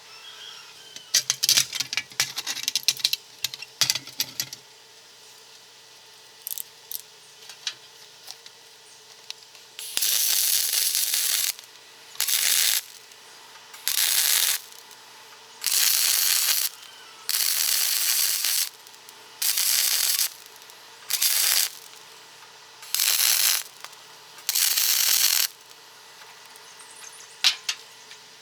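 Light metallic clinking and rattling, then about nine short bursts of loud hissing, each under two seconds, like air or spray being let out in pulses.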